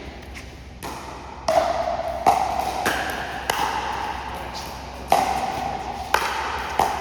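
Pickleball rally: paddles striking the hollow plastic ball back and forth, about eight sharp pops, each with a brief ringing tone, coming at an uneven pace of roughly one every half second to second and a half.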